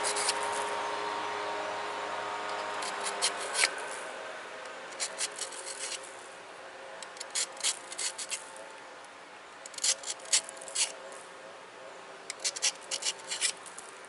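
Metal nail tip of a flintknapping pressure flaker being sharpened against an abrasive: short, sharp scraping strokes in about five quick clusters, with pauses between them.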